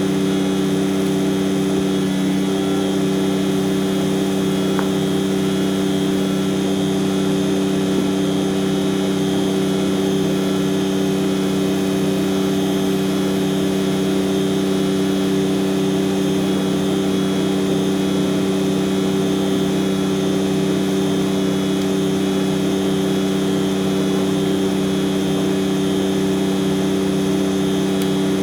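Heavy tanker truck's diesel engine running at a steady, unchanging speed, a constant drone.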